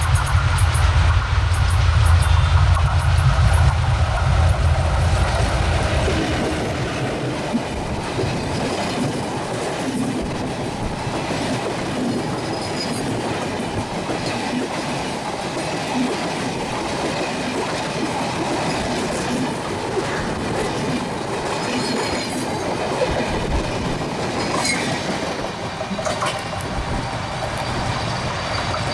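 Express passenger train passing at speed. The ALCO DL560C diesel locomotive's deep engine rumble dominates for the first few seconds, then drops away as the coaches roll past with a steady clatter of wheels over rail joints and a few faint high wheel squeaks.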